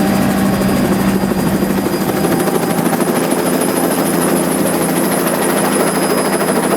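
Helicopter rotor and engine heard from inside a doorless cabin: a loud, steady rapid beat of the blades over rushing air, with a low hum that fades about two seconds in.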